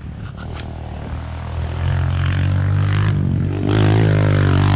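A motor vehicle engine running, growing louder about two seconds in, then rising and falling in pitch as it revs near the end.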